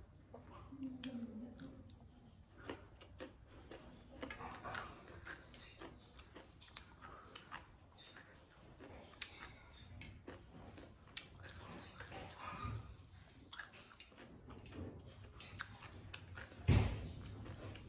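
A person chewing and eating from a plate with a fork: soft wet mouth sounds and many small clicks. One loud thump comes near the end.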